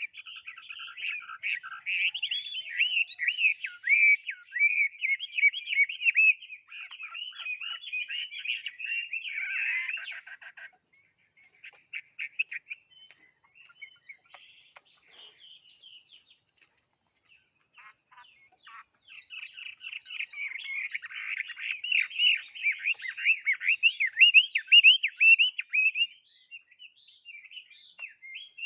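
A songbird singing long runs of rapid, varied warbling, broken in the middle by several seconds of only scattered short notes before the song picks up again.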